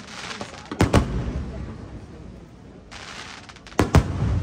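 Aerial firework shells bursting: two pairs of sharp bangs, the first about a second in and the second near the end, each followed by a rumbling echo.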